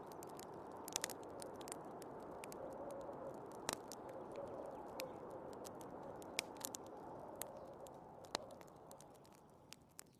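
Wood fire crackling and popping with irregular sharp snaps, over the steady rushing wind of a snowstorm. The wind noise fades down near the end.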